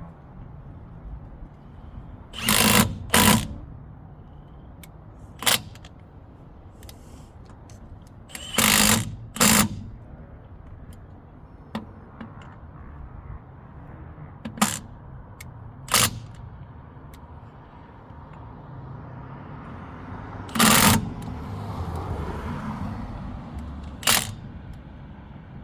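Impact wrench driving lug nuts tight on a truck wheel in short, loud bursts, about nine of them, several in quick pairs. A rushing background noise swells and fades near the end.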